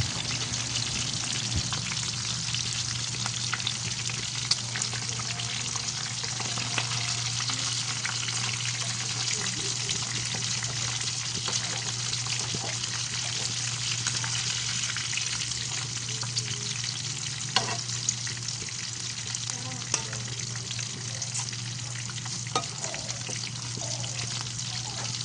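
Milkfish (bangus) frying in hot oil in a pan: a steady sizzle with scattered sharp pops and crackles.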